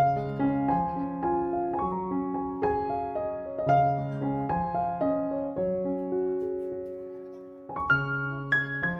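Soft solo piano background music, slow notes and chords.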